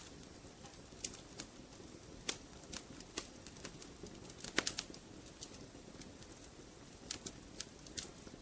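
Wood fire crackling in a fireplace: irregular sharp pops and snaps over a low steady burning noise, with a brief cluster of louder pops a little past halfway.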